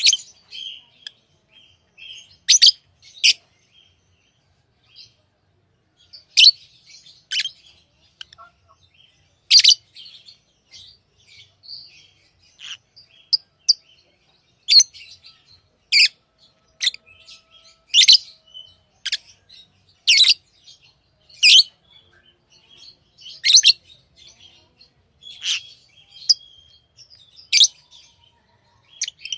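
Pet lovebirds calling: loud, sharp, high-pitched chirps every one to two seconds, with softer twittering in between.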